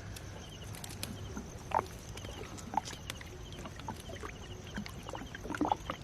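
Water splashing and dripping as a gill net is hauled in over the side of a small boat, with a few short splashes and knocks over a steady low rumble.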